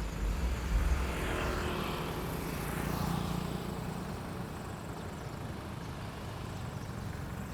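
Street traffic: a motor vehicle passes, with a low rumble and road noise that build over the first three seconds and then ease off into a steady background hum.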